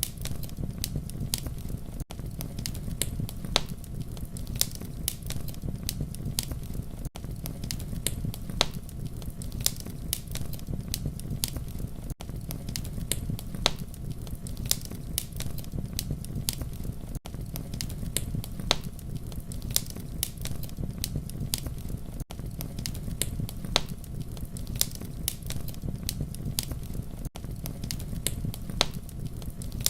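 Campfire crackling: a steady low rumble of flames with frequent sharp pops and snaps of burning wood. There is a brief dip in level about every five seconds.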